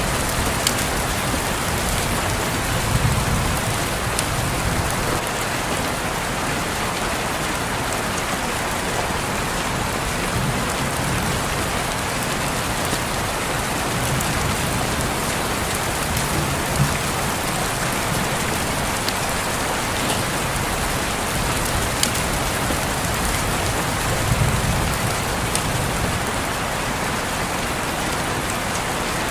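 Steady rain falling on a window, a dense even patter with a few sharper drop ticks and occasional low swells.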